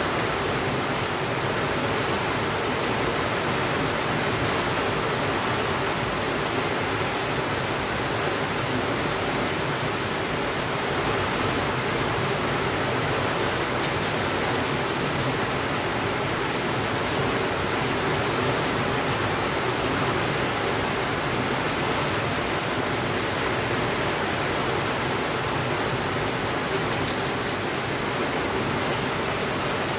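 Steady, even rainfall with a few faint ticks scattered through it.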